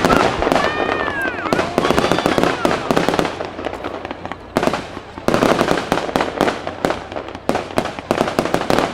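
Fireworks crackling densely and continuously, with a few whistling glides in the first two seconds and a short lull about halfway through.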